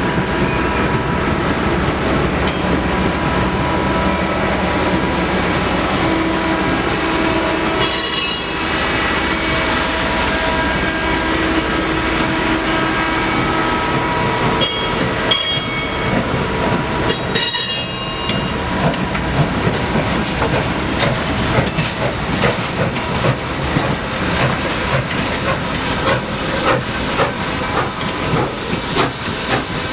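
Steam-hauled passenger train rolling past, its wheels clattering over the rail joints with some wheel squeal and a hiss of steam. The clatter gets busier in the second half.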